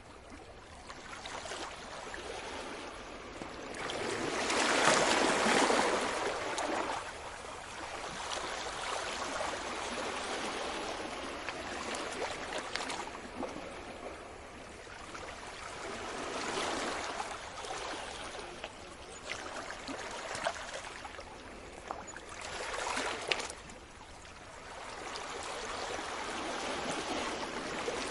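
Sea waves washing onto a shore, rising and falling away in slow swells, the loudest about five seconds in and smaller ones later.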